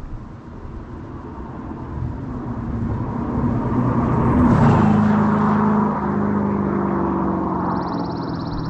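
2006 Dodge Charger R/T's 5.7 L Hemi V8 with the mufflers deleted, its exhaust growing louder to a peak about four and a half seconds in and then easing off as the car drives by.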